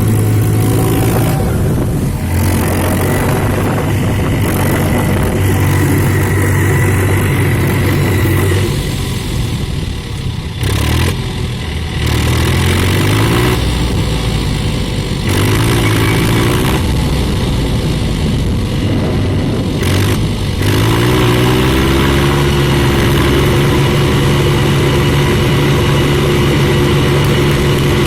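Tractor engine running, its pitch dropping back and rising again several times as it is throttled up, then revving up about two-thirds of the way through and holding the higher speed.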